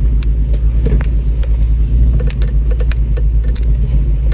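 Off-road truck's engine running with a steady low rumble as it crawls a rough, rocky trail, with scattered clicks and knocks from the truck working over the ground.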